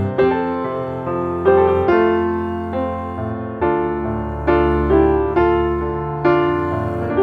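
Piano music: sustained chords struck about once a second, each fading before the next.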